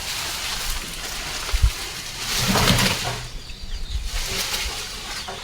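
Rustling of leafy plant stems and vines being pulled and handled, coming in a few noisy swells, the loudest about two and a half seconds in.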